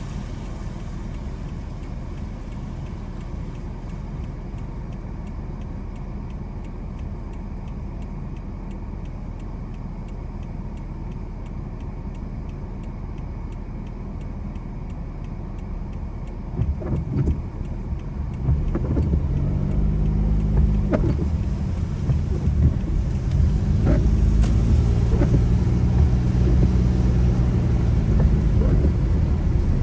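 Car on the move with a steady low road and engine rumble and faint rapid ticking. About halfway through it grows louder as the car picks up speed: a deeper engine hum comes in, with a few sharp thumps.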